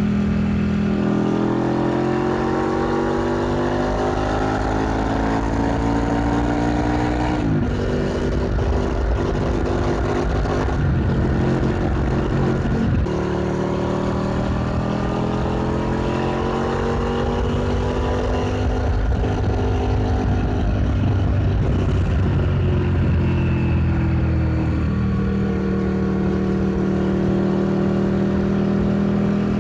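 Motorcycle engine heard onboard while riding: the revs climb, drop sharply at a gear change about seven seconds in and again around thirteen seconds, climb once more, then fall away and settle into a steady idle near the end.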